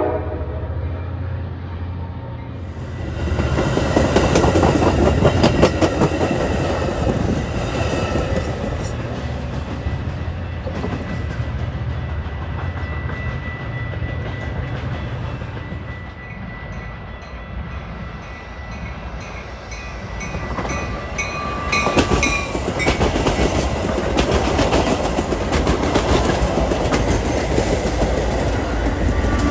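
Metra commuter trains rolling through the station, wheels clattering steadily over the rails, with a train horn sounding briefly past the middle.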